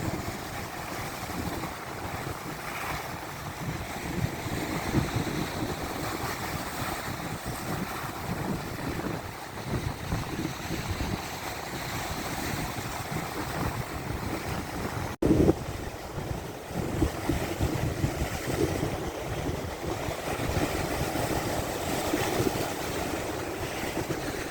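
Big lake waves rushing and breaking, with strong wind buffeting the microphone in gusts. There is a brief break in the sound and a jolt about fifteen seconds in.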